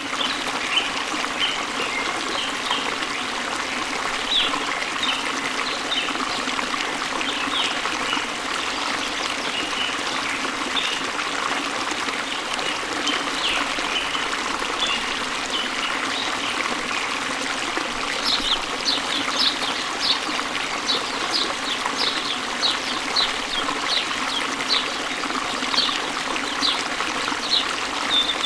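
Small stream trickling and burbling steadily, with birds chirping over it in short high notes that become quicker and more regular from about two-thirds of the way in.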